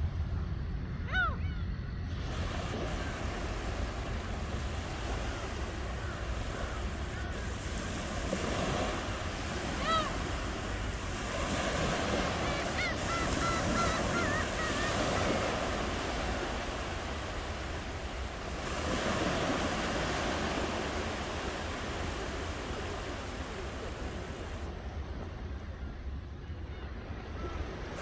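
Ocean waves washing onto a shore, swelling and easing, over a low wind rumble. A few short bird calls cut through: one about a second in, another around ten seconds, and a run of quick chirps a little after.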